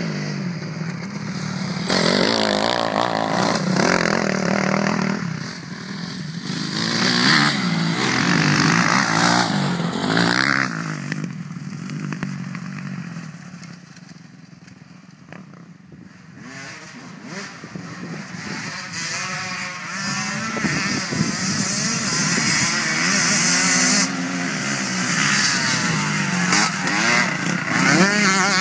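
Motocross motorcycle engine revving hard, its pitch climbing and dropping again and again with throttle and gear changes. The engine eases off to a quieter stretch around the middle, then builds back up to full revs.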